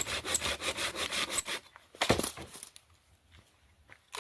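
Firewood being sawn by hand in quick, even strokes that stop about a second and a half in, followed by a single loud knock of wood.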